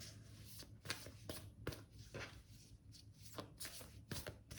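Tarot cards being shuffled and handled: a string of short, quick flicks of the cards, with a faint steady low hum underneath.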